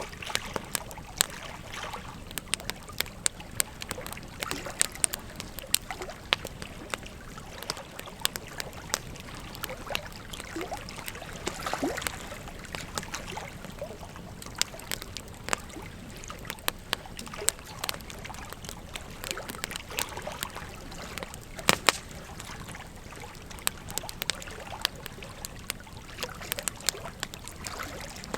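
Bonfire crackling with frequent sharp pops over the steady rush of a flowing river; a louder double pop comes about 22 seconds in.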